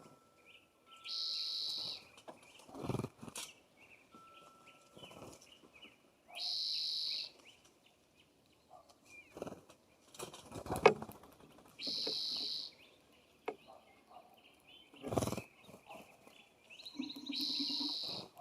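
Birds calling at a feeder: a harsh, high call about a second long comes four times, roughly every five seconds. Several sharp knocks fall in between, the loudest about halfway through.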